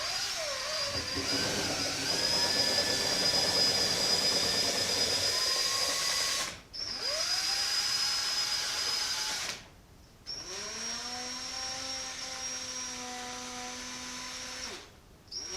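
Power drill running in bursts, stirring a can of old porch paint, with brief stops between runs; its pitch dips each time it starts into the thick paint.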